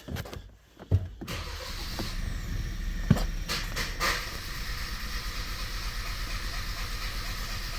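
Starter motor of a 2017 Kia Sorento 2.0 turbo cranking on and on after the engine died with injector 2 shut off by the scan tool: the starter keeps spinning after an injector kill. It begins with a thump about a second in, then runs steadily.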